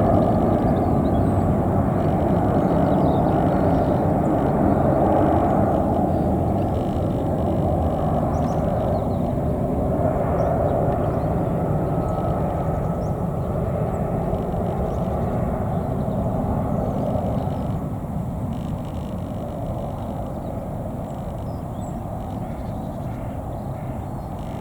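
Jet engine noise from an Airbus A319-111's CFM56 turbofans, loud and steady, then slowly dying away over the last several seconds as the airliner moves off.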